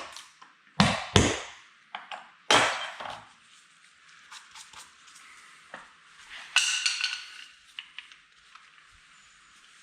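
Hammer blows on a punch, knocking drilled-out rivets back through a stainless roof bracket: two sharp metallic strikes about a second in and a harder, ringing strike at about two and a half seconds. About six and a half seconds in comes a ringing metallic clatter.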